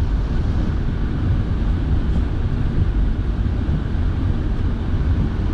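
Steady cabin noise of a moving car: a low, even rumble of engine and tyres with a constant hiss over it.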